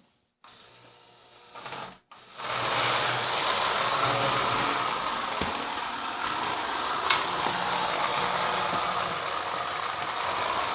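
Marx 1666 toy electric locomotive running around a model train layout, a steady mechanical whirring and rattling of motor, gears and wheels on the track. It comes in faintly, then reaches full running about two and a half seconds in, with one sharp click near the middle.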